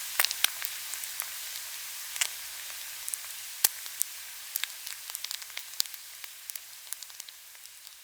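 Pork belly sizzling on a grill, a steady high hiss with scattered sharp pops and crackles of spitting fat. The sizzle slowly grows fainter.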